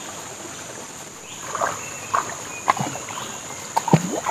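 Irregular splashes and sloshes of river water as someone moves through it, starting about a second and a half in, over a steady high insect drone.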